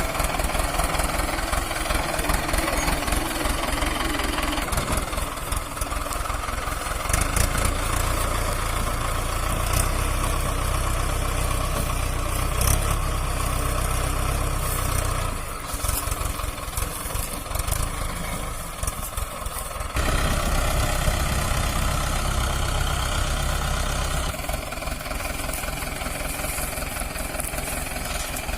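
Mahindra four-cylinder diesel tractor engines running with an even knocking beat while pulling a stuck tractor. They work harder in two stretches, from about seven to fifteen seconds in and again from about twenty to twenty-four seconds.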